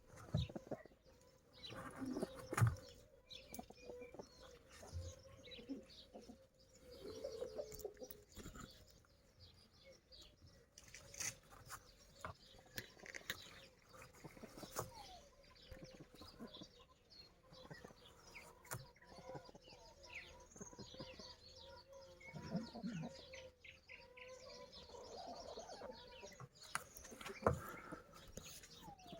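Chickens clucking and chirping softly, with scattered short clicks and scratches.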